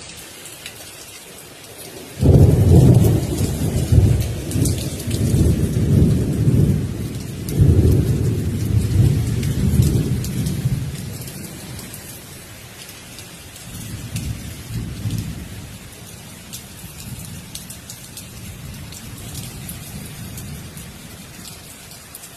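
Steady rain falling throughout. About two seconds in, a loud rumble of thunder breaks in and rolls on in swells for several seconds before fading. A fainter rumble returns briefly later.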